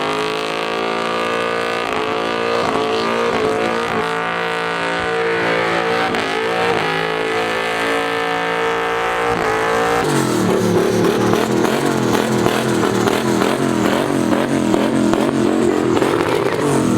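Race car engine running hard at high revs, its pitch mostly held for about ten seconds, then turning rough with the revs wavering rapidly up and down.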